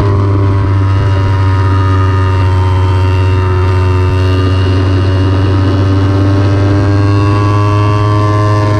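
Kawasaki Ninja 300's parallel-twin engine running hard at high revs, its pitch creeping up a little and then holding steady.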